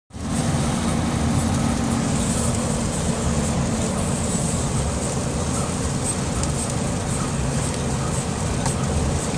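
Thunderstorm noise: heavy rain and wind making a steady, loud low rush, with a steady low hum under it and faint scattered ticks.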